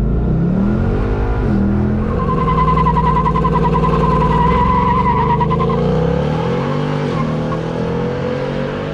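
Infiniti Q50 Red Sport 400's twin-turbo V6 revving, its pitch rising and falling several times, with a high wavering whine through the middle.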